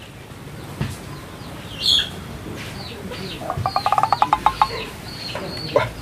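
Small birds chirping: short high chirps repeating through the second half, with a quick trill of about a dozen notes a little past the middle.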